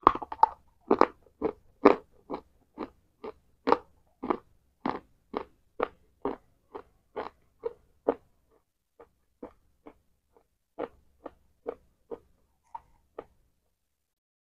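A person chewing crunchy food close to the microphone, with sharp crunches about twice a second. The crunches are loud at first and grow fainter and further apart from about eight seconds in.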